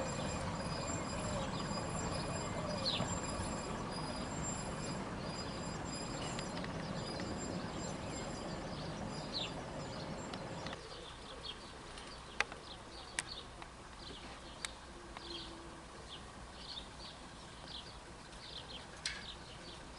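A narrow-gauge train running steadily, drawn by a diesel-hydraulic locomotive: a low rumble of engine and wheels that drops away suddenly about halfway through. Afterwards small birds chirp, with a few sharp clicks.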